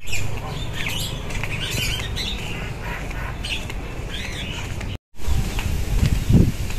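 Birds chirping with short calls over a steady low outdoor rumble. About five seconds in the sound cuts out for a moment, then gives way to irregular low thuds and rumble.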